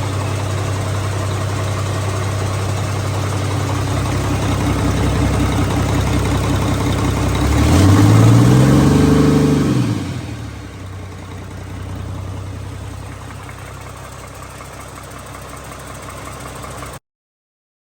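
Mack AI inline-six diesel engine idling steadily, then revved once about eight seconds in and let back down to a quieter idle. The sound cuts off abruptly near the end.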